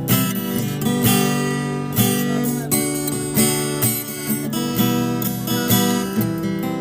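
Background music: strummed acoustic guitar, with a strum about once a second.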